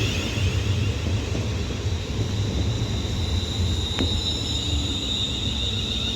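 Class 350 Desiro electric multiple unit drawing into the platform: a steady low rumble under a high, even whine, with a single sharp click about four seconds in.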